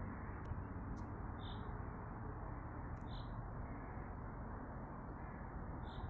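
A bird giving a short high call three times, a second and a half to two and a half seconds apart, over a steady low background noise.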